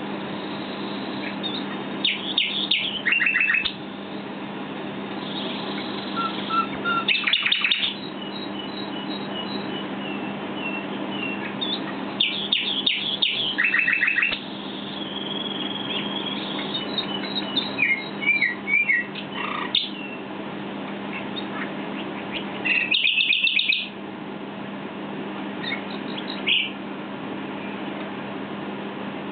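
Common nightingale singing in separate phrases every few seconds, made of fast rattling trills and clear whistled notes. A steady low hum runs underneath.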